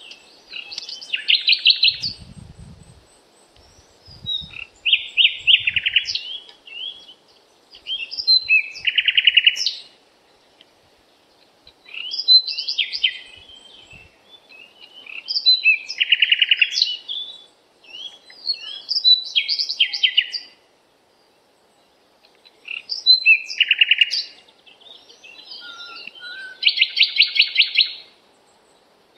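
A songbird singing about eight separate song phrases, each a second or two long and made of quick chirps and trills, with short pauses between them.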